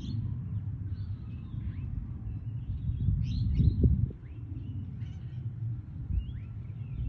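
A low, steady rumble from the sky that swells briefly a little past halfway through, with birds chirping in short upward-sweeping calls over it.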